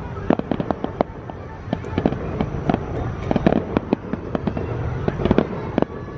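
Aerial fireworks display: a dense, irregular run of sharp bangs and cracks, several each second, over a steady low rumble of further bursts.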